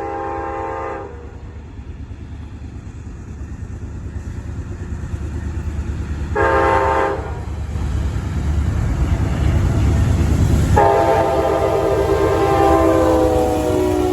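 Amtrak Auto Train's diesel locomotives approaching, their low engine rumble building up, while the multi-note air horn sounds: the end of a blast in the first second, a short blast about six seconds in, and a long blast starting near the eleven-second mark that carries on past the end.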